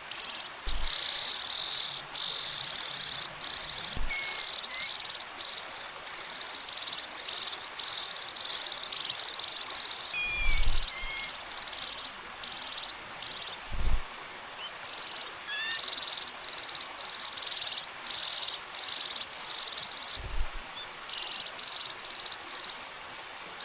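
Hungry nestling birds giving rapid, high-pitched, buzzy begging calls in repeated bursts while being fed earthworms. A few dull thumps come in between, the loudest about ten and fourteen seconds in.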